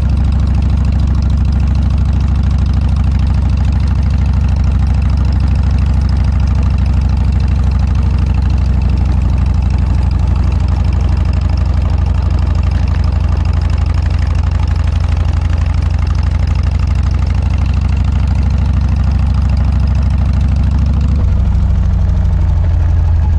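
Harley-Davidson Dyna's air-cooled V-twin running through a Motorstage aftermarket muffler, a steady, deep pulsing exhaust note; the note changes about three seconds before the end.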